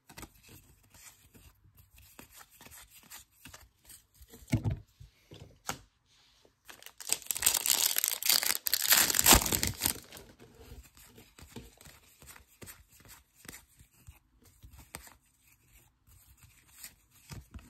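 Plastic trading-card pack wrapper being torn open and crinkled, loudest for about three seconds in the middle, amid light rustling and clicks of card handling.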